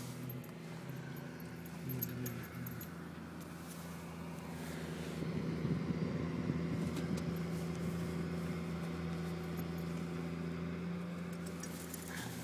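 Car driving, heard from inside the cabin: a steady engine hum with road noise, growing louder about five seconds in.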